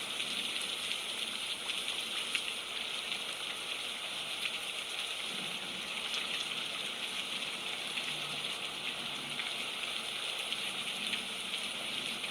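Steady rain falling, a dense, even hiss with many small drop ticks in it.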